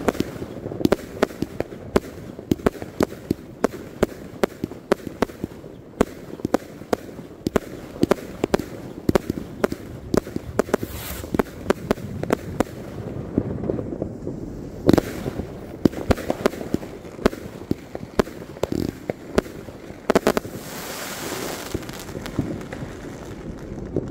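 Aerial fireworks going off: a dense, irregular run of bangs from bursting shells, one especially loud about fifteen seconds in, with a stretch of crackling hiss about twenty seconds in. The bangs thin out near the end.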